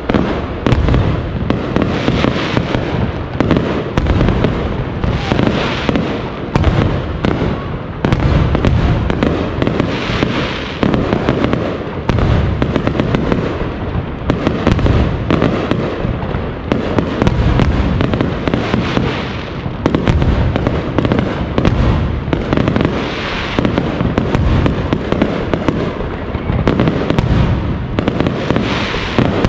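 Fireworks display: a continuous barrage of aerial shell bursts, many sharp bangs in quick succession with no let-up.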